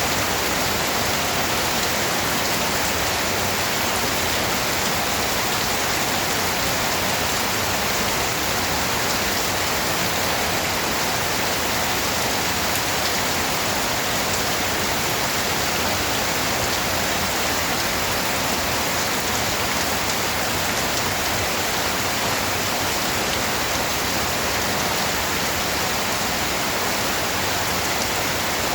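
Steady rainfall pattering on a surface, an even hiss of drops with no change in strength.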